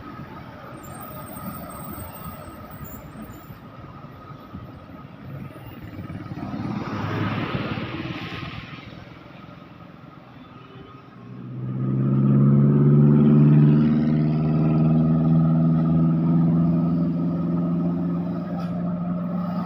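Road traffic: a vehicle passes with a swell of road noise about seven seconds in. From about eleven seconds, a heavy vehicle's engine comes up loud and runs on with a steady low drone.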